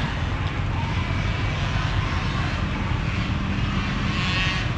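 Several small peewee dirt bike engines running together in a steady, dense buzz.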